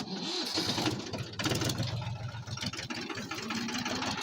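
New Holland tractor's diesel engine running steadily with a deep, even throb.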